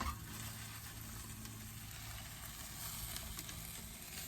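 An omelet frying in a pan with a steady sizzle. There is a brief click right at the start.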